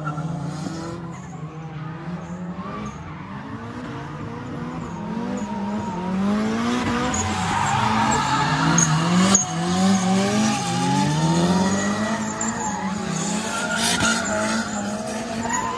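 Hyundai Genesis Coupe drifting: the engine revs rise and fall repeatedly through the slides while the tyres squeal. It gets louder from about six seconds in and eases off near the end.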